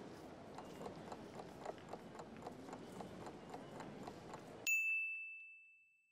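Background ambience of footsteps and a low hubbub, cut off near the end by a single bright ding that rings and fades away.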